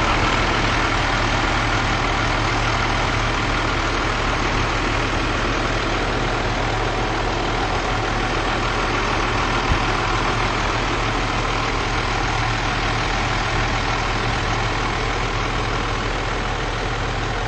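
A large engine idling steadily, with a constant low hum and an even mechanical noise over it; a small knock is heard about ten seconds in.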